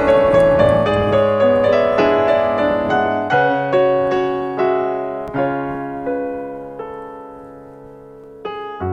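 Background piano music: slow chords and single notes that die away gradually, then a new chord struck just before the end.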